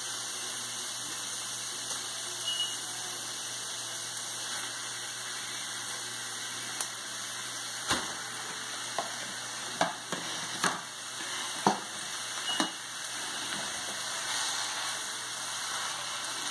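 Onions, peppers and ground beef frying in a skillet, a steady sizzle. A handful of sharp knocks and clicks come between about eight and thirteen seconds in.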